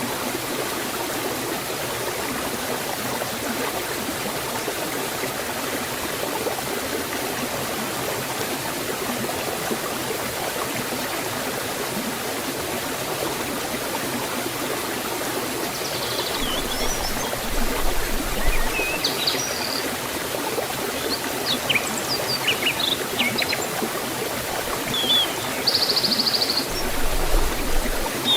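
Forest stream or waterfall rushing with a steady, even wash of water. Small birds chirp and whistle in short calls through the second half.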